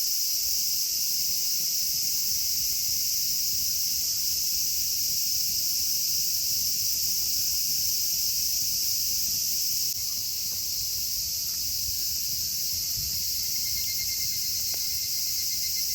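A steady, high-pitched chorus of insects chirring without a break. A faint pulsing trill joins near the end.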